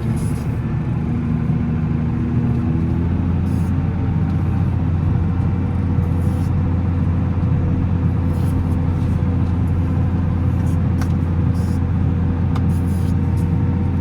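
Volvo L70C wheel loader's diesel engine running at a steady speed, a constant low drone.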